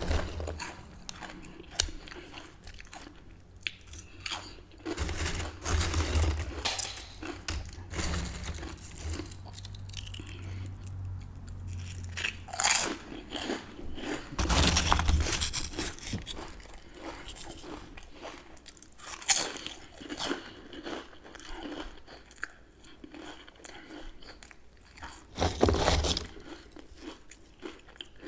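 Close-miked crunching and chewing of potato chips: crisp bites and crackly chewing come in bouts, loudest about 5, 13, 15 and 26 seconds in.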